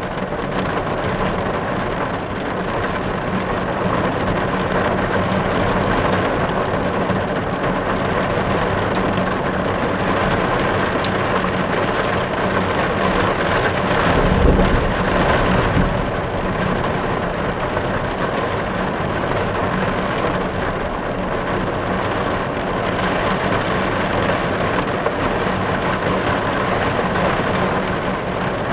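Steady rain falling on a car's roof and glass, heard from inside the car, with a brief low rumble about halfway through.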